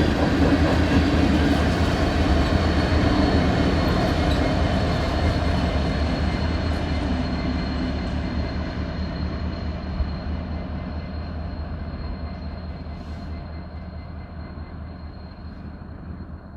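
The rear of an empty BNSF coal train, with two diesel distributed-power locomotives at the end, running on the rails and fading steadily as it moves away. There is a low diesel rumble with a few steady high tones over it, and a single knock about ten seconds in.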